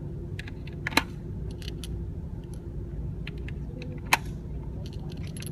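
Two gunshots about three seconds apart, with small metallic clicks and clinks between them over a steady low hum.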